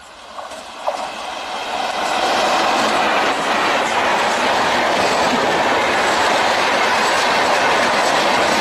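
A WAP4 electric locomotive and its passenger coaches pass close at speed. The noise of wheels on rail, with clickety-clack, swells quickly over the first two seconds, with a sharp knock about a second in, then holds steady and loud as the coaches run by.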